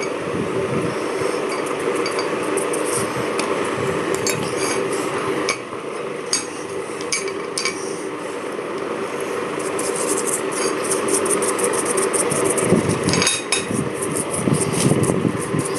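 Steel parts of a 3-jaw lathe chuck clinking and knocking against each other while being cleaned of diesel-soaked grease and rust, over a steady hum.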